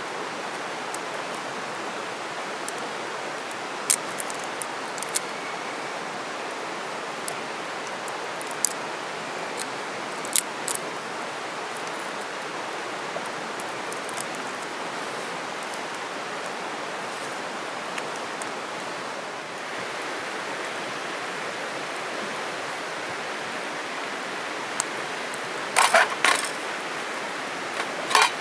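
Campfire crackling: scattered sharp pops and snaps, with a few louder cracks near the end, over a steady rushing hiss.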